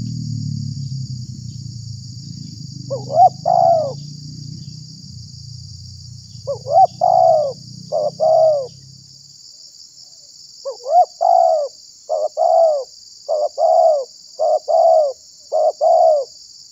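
Spotted dove (tekukur) cooing in short phrases of two or three notes. Near the middle it breaks into a longer run of coos repeated about once every half second. A steady high hiss runs underneath, and a low hum fades out about halfway through.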